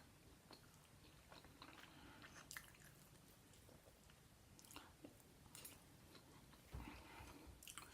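Faint chewing and mouth sounds of someone eating pancakes, with scattered soft clicks and smacks.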